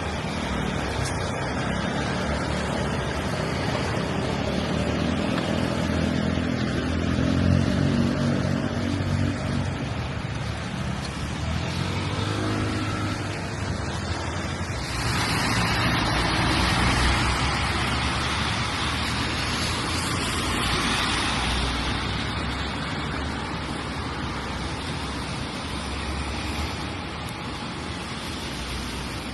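Steady rain on a city street, with a car passing on the wet road: a low engine hum builds and fades over several seconds, then a louder hiss of tyres on wet asphalt rises suddenly about halfway through and slowly dies away.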